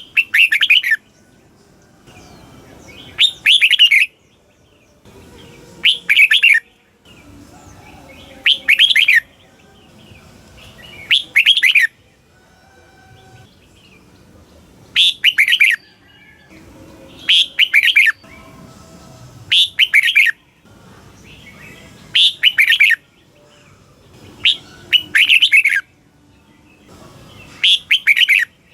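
Red-whiskered bulbul singing: short, loud chirping song phrases about a second long, repeated every two to three seconds, with a longer pause near the middle.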